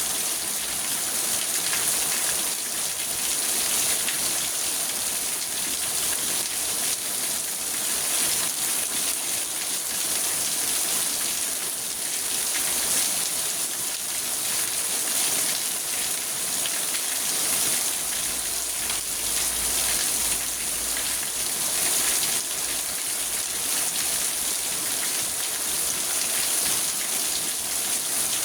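Rain falling on a car's roof and windows, heard from inside the car: a dense, steady patter of drops.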